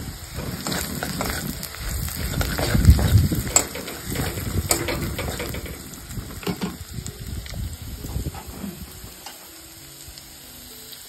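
Sliced onions sizzling in hot oil in a metal kadai, with the spatula clicking and scraping against the pan as they are stirred. The stirring and sizzling die down over the last few seconds.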